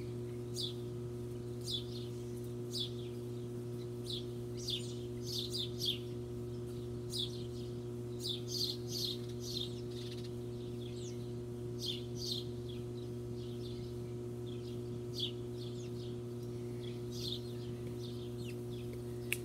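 Small birds chirping in quick, high, downward-sliding chirps that come in little clusters, over a steady low hum.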